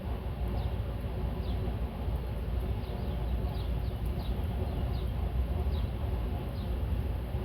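Steady low rumble of outdoor background, with a bird repeating a short, high, falling chirp more than once a second.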